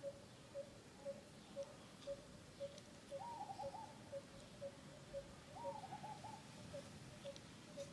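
Birds calling: a short low hooting note repeated about twice a second, with two brief rapid warbling calls, about three seconds in and again about five and a half seconds in.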